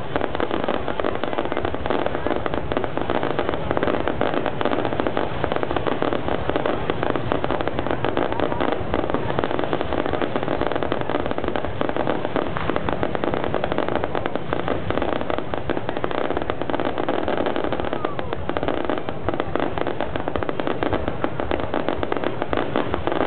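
Fireworks going off in a dense, continuous barrage of rapid crackles and pops.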